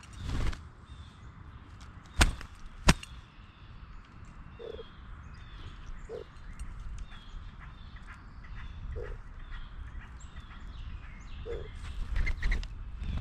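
Outdoor birdsong: small birds chirping over and over, with short low hooting notes every couple of seconds. Two sharp knocks sound about two and three seconds in.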